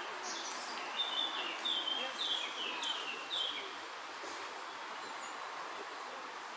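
A small bird sings a quick series of short, falling chirps for about three seconds, over a steady outdoor background noise.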